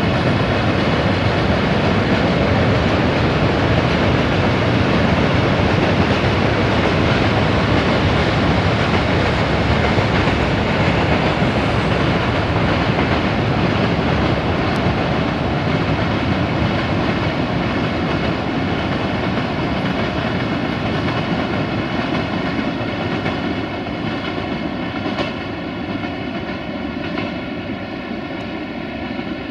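Freight train passing: the steady drone of its diesel locomotive's engine over the rumble of the wagons. It grows slowly quieter near the end.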